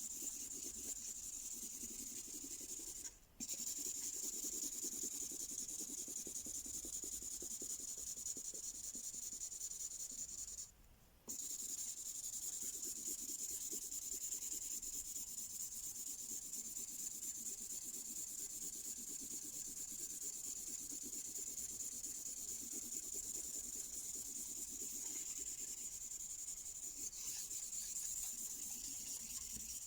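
A Mystery Ink marker tip colouring across paper in continuous scratchy strokes, breaking off briefly twice: a few seconds in and again around eleven seconds in.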